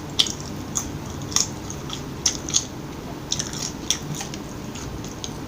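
Close-miked eating of McDonald's fast food: chewing with short sharp crisp crunches and mouth clicks, irregular, about eight or nine in all, several in the first three seconds and a couple more near four seconds.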